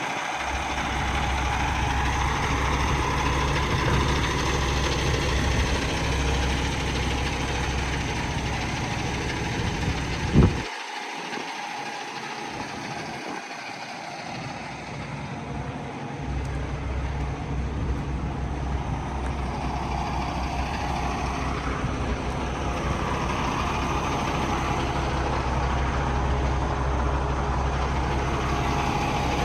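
Cummins X15 diesel engine of a Peterbilt 389 idling steadily with a deep rumble. A single sharp knock comes about ten seconds in, after which the deep rumble drops away for about five seconds before coming back.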